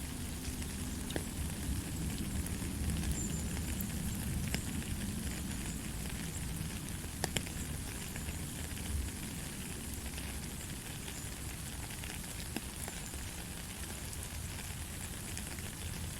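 Steady light rain falling, with scattered drops ticking against a surface.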